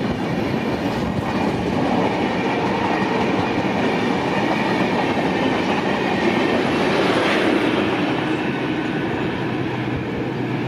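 Train running past on the track: a steady rumble of wheels on rails with a clickety-clack over the rail joints.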